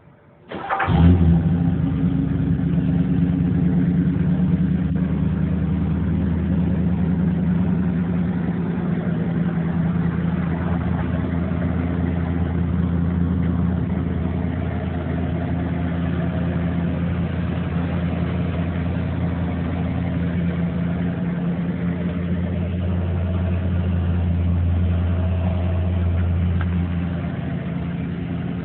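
Classic vehicle's engine starting about half a second in, picking up briefly as it catches, then idling steadily.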